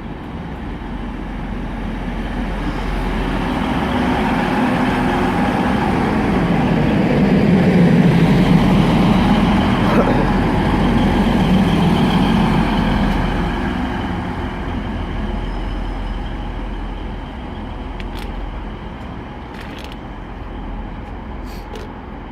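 First TransPennine Express class 185 diesel multiple unit, its Cummins diesel engines running as it draws into the platform, growing louder to a peak and then quieter as it slows.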